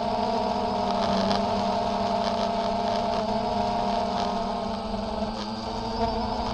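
DJI Phantom quadcopter's motors and propellers buzzing steadily in flight, the pitch wavering slightly.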